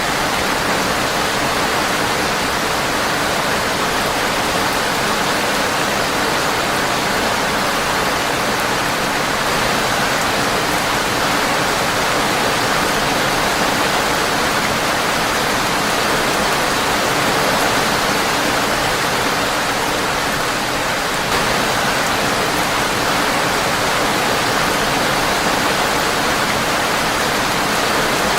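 Steady, dense rain on a windowpane, an even hiss with no separate drops standing out; the level steps up slightly about three-quarters of the way through.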